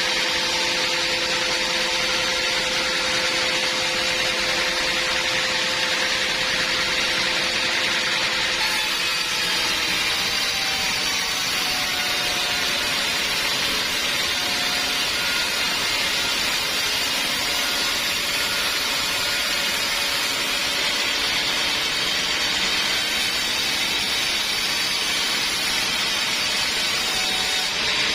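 Band sawmill running steadily: a continuous mechanical noise of blade and motor, its low hum changing pitch about eight seconds in.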